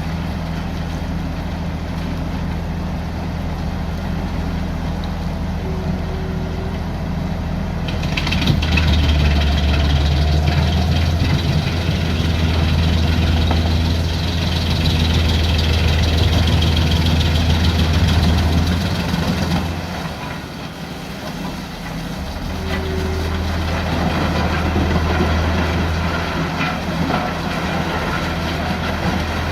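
Jenz HEM drum wood chipper running with a steady engine drone. About eight seconds in it grows louder and rougher as a log is fed to the rotor and chipped. It eases briefly around twenty seconds, then takes on load again before settling back.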